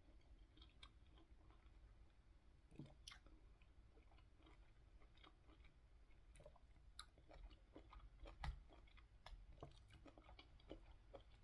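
Faint chewing of juicy mango and pineapple chunks, with scattered small clicks as a plastic fork picks at pieces in a plastic container.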